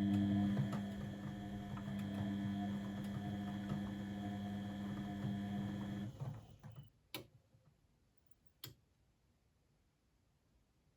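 Blomberg WAF 7442 SL washing machine's drum motor humming steadily as the drum turns, then stopping about six seconds in. Two sharp clicks follow during the pause.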